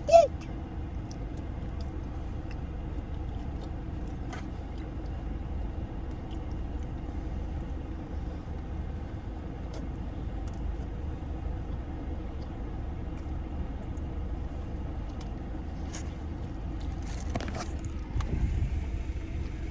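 Steady low rumble of a car interior with the engine running. There is a short, loud, high falling squeal right at the start, and a few small clicks and taps later on.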